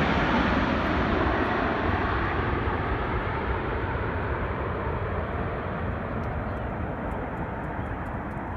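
Jet airliner's engine noise, a steady rush that fades gradually as the aircraft moves away, its higher part dying off first.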